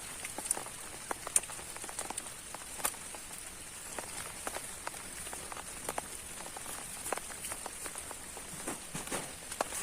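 Steady heavy rain falling, with scattered sharp drops striking close by.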